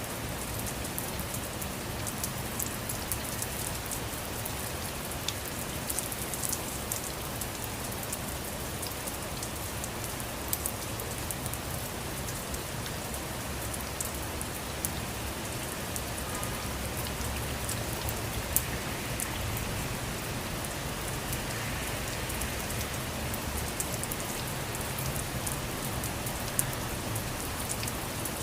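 Steady rain falling, a continuous hiss with many small drop ticks spattering on a surface.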